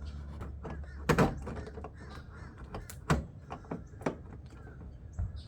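Scattered clicks and knocks of plastic and metal as a headlight assembly is handled and its mounting screws are worked into place. The loudest is a short harsh knock about a second in, with another just after three seconds, over a steady low hum.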